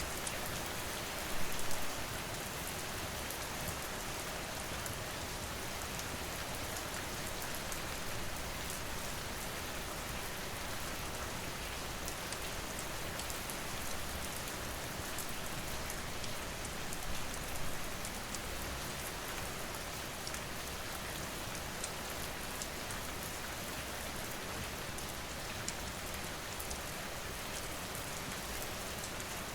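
Steady rain falling, mixed with scattered sharp crackles and pops from a wood fire. There are brief louder bursts about a second and a half in and again after about seventeen seconds.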